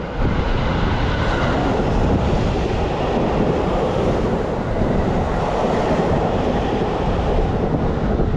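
Seibu 001 series "Laview" limited express train running through a station: a loud, steady rush of wheel, rail and air noise as the cars pass.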